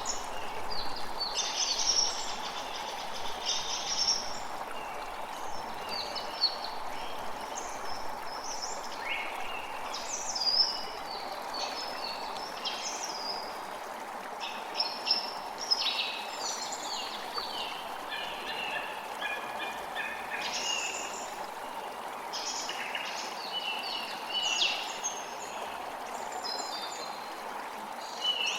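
Many birds chirping and singing in short, frequent calls over the steady rush of flowing water.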